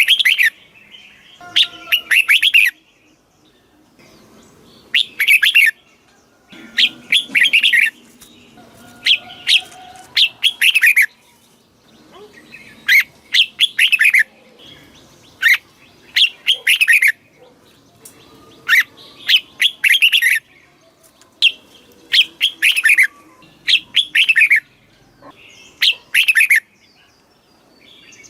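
Red-whiskered bulbul singing: loud, short phrases of several quick notes, some sliding down in pitch, repeated every second or two with brief pauses between them.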